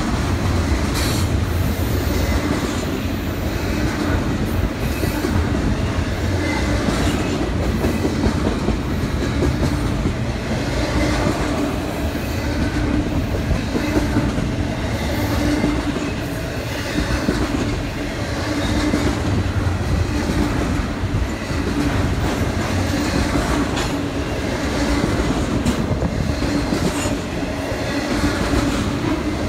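Train cars rolling steadily past close by, with a low rumble and many irregular wheel clicks.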